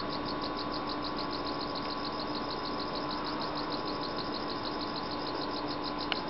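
A cricket chirping in a fast, even series of high pulses, over a steady low electrical hum.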